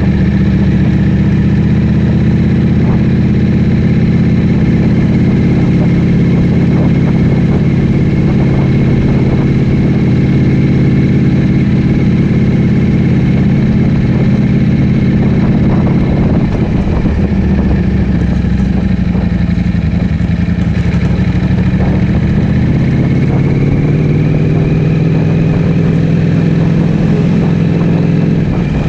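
Ducati Streetfighter V4S's 1103 cc V4 engine through an Akrapovic full-system exhaust, running loud at steady revs. About two-thirds through the pitch drops, then the revs rise again near the end.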